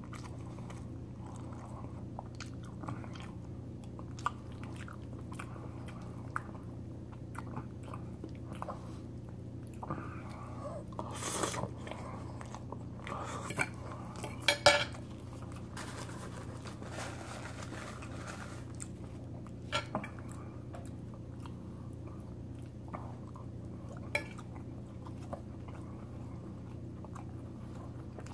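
A person chewing mouthfuls of chicken alfredo spaghetti, with a metal fork clicking and scraping on the plate now and then. The clicks are loudest and busiest around the middle. A steady low hum runs underneath.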